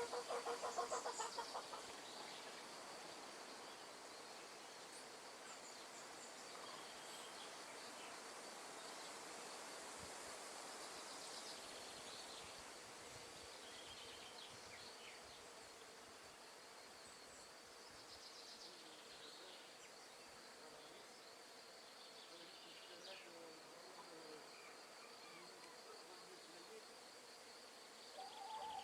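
Faint rural nature ambience: a steady high insect trill, scattered bird chirps and a soft even hiss of wind in the trees. A hen clucks in the first second or so.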